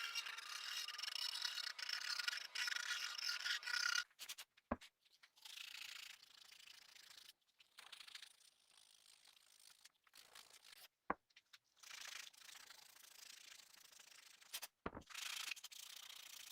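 Rust being scraped and scrubbed off a small metal hammer head. It is dense, fairly loud scraping for about the first four seconds, then quieter rubbing in short stretches, with a few sharp clicks.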